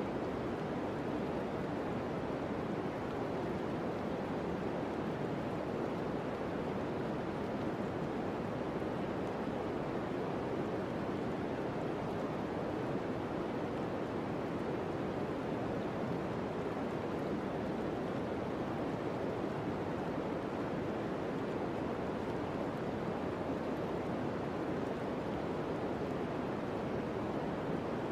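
Green noise: a steady, unchanging hiss concentrated in the middle range around 500 Hz, soft in the highs, like a distant surf with no waves.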